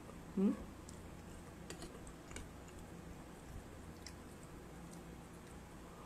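Quiet chewing of noodle soup, with a few faint light clicks, likely of the metal spoon and fork. About half a second in there is a short rising hum.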